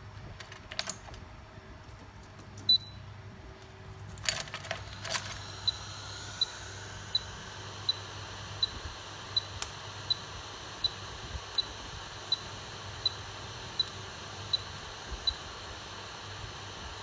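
A few sharp clicks, then an electronic beeper sounding a short, high beep about every three-quarters of a second, about fourteen times, over a steady hiss that comes up about four seconds in.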